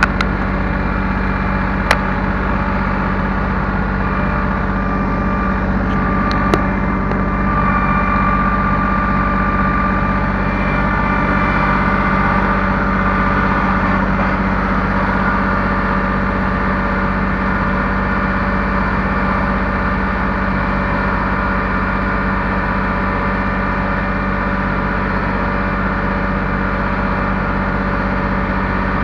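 Heavy machine's engine running steadily at a constant speed, with a higher whine for several seconds after the start and two sharp clicks early on.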